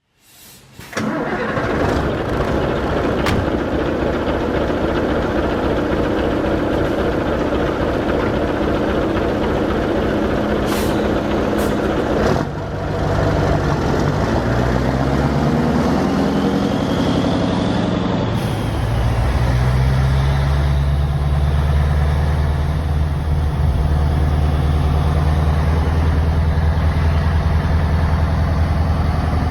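Scania 142H truck's 14-litre V8 diesel starting: a dense, steady cranking-like noise for about twelve seconds. The engine then catches, its note wavers up and down for a few seconds, and it settles into an even idle.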